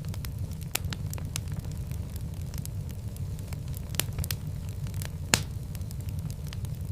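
Fire crackling in a fireplace: a steady low rumble of burning with irregular sharp pops and snaps, one louder pop about five seconds in.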